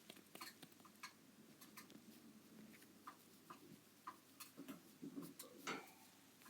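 Faint rustling and small irregular soft clicks as a white Java dove is stroked by hand, with a slightly louder scuffle near the end.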